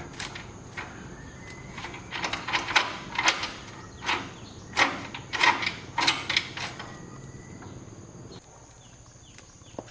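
Irregular knocks, taps and short scrapes of hand tools and parts being handled while an old tractor engine is worked on. They come in a cluster through the middle, a dozen or so in a few seconds, then thin out near the end.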